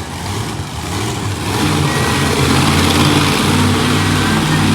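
Monster truck engine running loud, its level building about a second and a half in and then holding.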